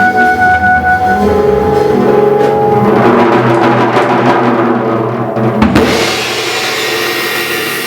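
Jazz ensemble recording with a drum kit playing along, on the held closing chord of the tune: a trumpet note held until about a second in, then the band chord with busy drums. About five and a half seconds in comes a hard cymbal-and-drum hit, and the chord rings on after it.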